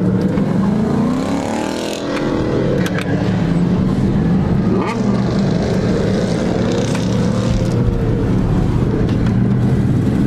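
Car engine running, heard from inside the cabin while driving, with the revs rising and falling about a second in and again around five seconds in.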